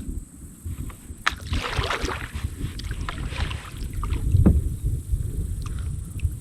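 Kayak on the water: splashing and a few sharp knocks against the hull over a low wind rumble on the microphone.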